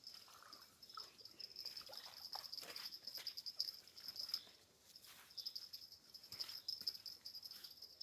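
Crickets chirping in a steady, pulsing high trill, with scattered faint clicks and rustles.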